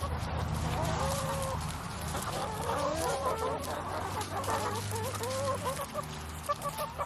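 A flock of domestic chickens clucking and calling, several overlapping voices at once, over a low steady hum that fades out about six seconds in.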